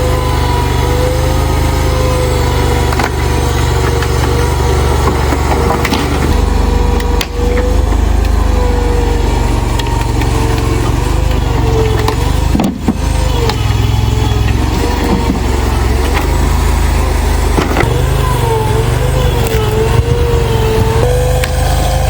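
Small tracked skid steer's engine running steadily, with a high whine that wavers up and down in pitch, most of all near the end. A few sharp knocks are heard through it.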